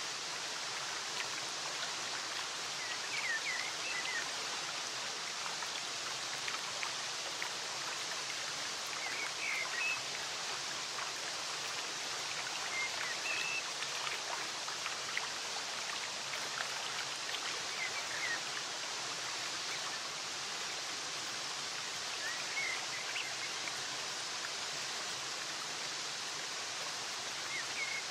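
Steady rushing of flowing stream water, with short, high bird chirps every few seconds over it.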